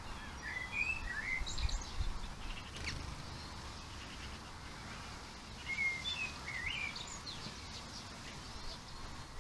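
Small garden songbirds chirping and giving short warbled phrases in two bouts, about a second in and again near six to seven seconds, over a steady low background noise.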